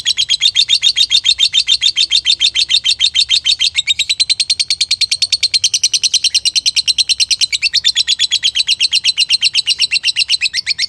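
Lovebird giving a long, unbroken chattering trill: a rapid run of sharp, high notes, about ten a second.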